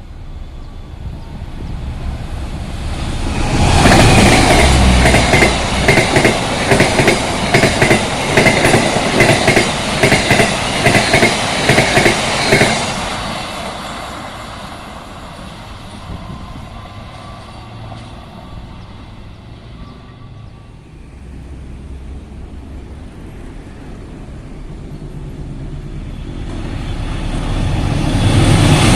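Passenger train passing at speed on a straight run, its wheels clattering rhythmically over the rail joints for about nine seconds before it fades away. Near the end a second train approaches and grows loud.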